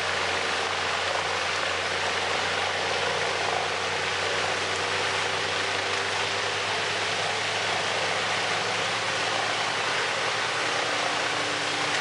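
Large wood chipper running steadily, shredding a log: an even engine hum under a dense, continuous rushing noise from the chipping.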